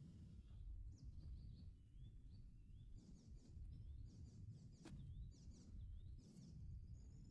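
Faint bird chirping: quick series of short high notes that sweep up and down, over a low steady rumble of background noise.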